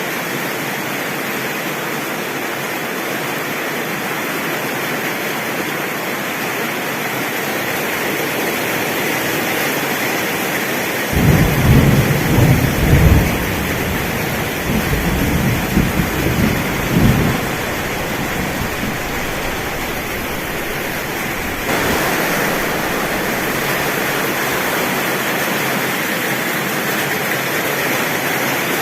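Heavy rain pouring onto a tin roof, a steady dense hiss. Thunder rolls in about a third of the way through, rumbling deep in several surges for about six seconds. The rain grows a little louder about three quarters of the way in.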